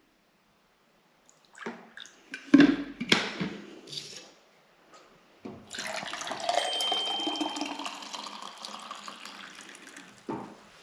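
A few knocks and clatters, then water running steadily for about four seconds before fading out.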